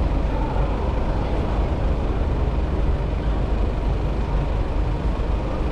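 Steady road traffic noise heard from a bicycle, a continuous even rumble with a heavy low end and no single event standing out.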